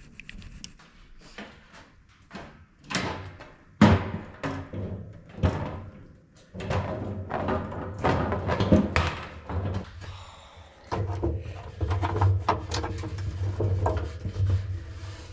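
A series of knocks, thunks and clatters from honey frames being handled and set into a metal honey extractor. The loudest knock comes about four seconds in.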